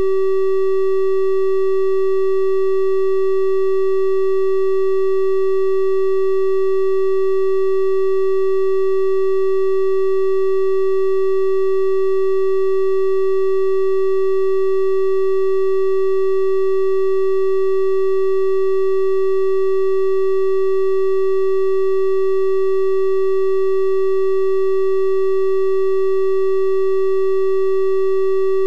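Synthesized 384 Hz triangle-wave tone held steady at one pitch, with faint higher overtones above the strong fundamental.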